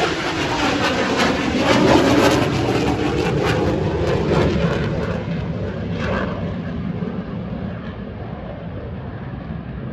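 Eurofighter Typhoon's twin EJ200 turbofans roaring as the jet passes. The pitch falls as it goes by, it is loudest about two seconds in, then it fades away.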